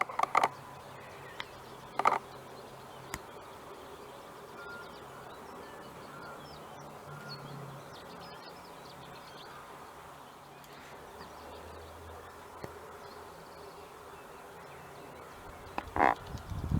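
Outdoor wetland ambience: faint bird calls over a steady background hiss, broken by three louder short sounds, one just after the start, one about two seconds in and one near the end.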